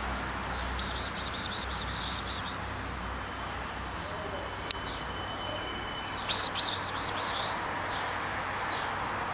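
A small bird chattering in two runs of rapid, high, evenly repeated chirps, each lasting a second or two, with a thin whistled note between them. A single sharp click about halfway through, over steady background noise.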